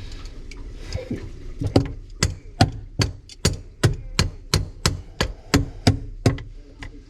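A quick run of about a dozen sharp, evenly spaced knocks, roughly three a second, starting a little under two seconds in and stopping a little after six seconds.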